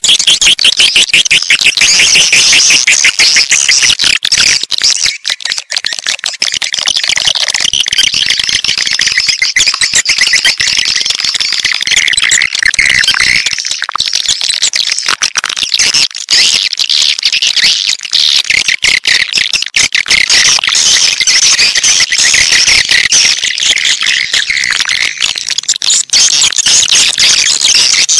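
A dense, unbroken chorus of swiftlets twittering and chirping, high-pitched. It is a swiftlet lure call, played to draw swiftlets into a swiftlet house.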